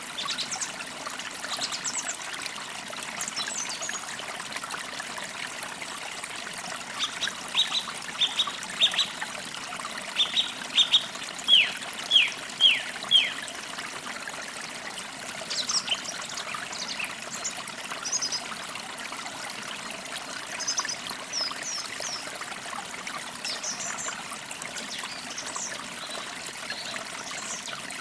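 A small stream trickling steadily under forest songbirds. A run of about a dozen quick, downward-sweeping whistled notes grows louder about a quarter of the way in, followed by scattered higher chirps.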